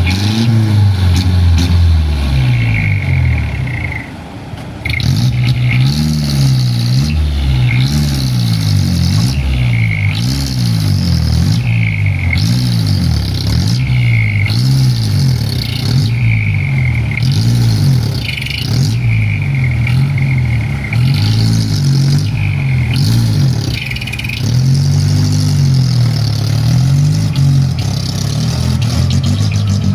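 Mitsubishi Canter dump truck's diesel engine revving up and falling back over and over, about every second or two, as the fully loaded truck, sunk in soft ground, strains to pull free.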